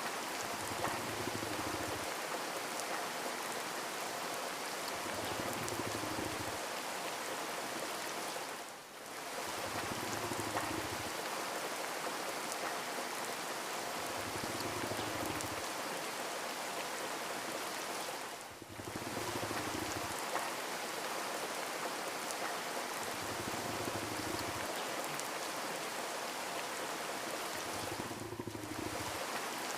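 Steady rain, an even hiss of falling drops, briefly dipping in level three times. A soft low pulse recurs every four to five seconds beneath it.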